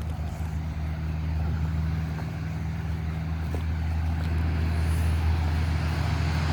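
Motor vehicle engine running steadily, a low hum that grows gradually louder.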